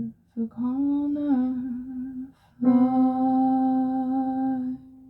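A solo voice sings the last line of a slow song, then holds one long, steady final note that stops abruptly shortly before the end. A faint steady tone is left sounding.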